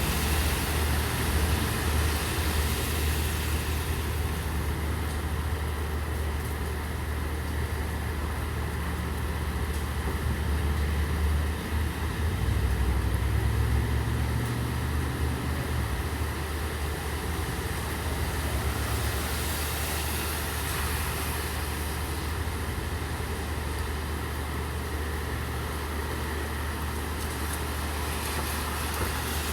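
Steady rain with a vehicle engine running underneath as a low rumble, its note shifting for a few seconds about twelve seconds in.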